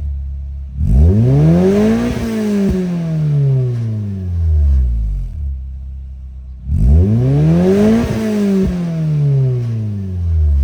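Toyota AE86's four-cylinder engine revved twice through a Tec Arts x Fujitsubo muffler and a test pipe in place of the catalytic converter: each time the pitch climbs quickly for about a second, then falls back slowly over about three seconds.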